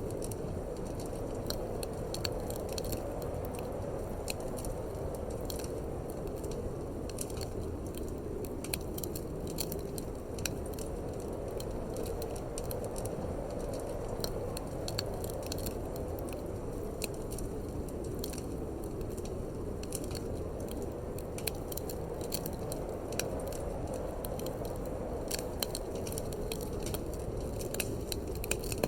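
Wood fire crackling in a fireplace, with many small irregular snaps and pops over a steady rushing of wind.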